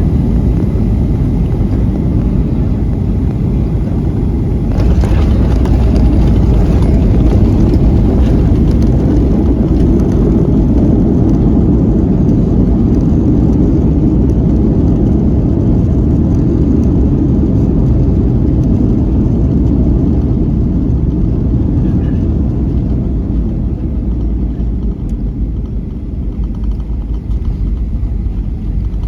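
Boeing 737-900ER landing roll heard from inside the cabin: a loud, steady rumble of engines and wheels on the runway. It grows louder about five seconds in, then slowly dies down as the jet slows.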